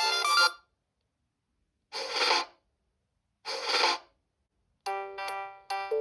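Siemens S75 mobile phone ringtones. One melody stops about half a second in, two short buzzy rings follow about a second and a half apart, and near the end a new ringtone of short, separate notes begins.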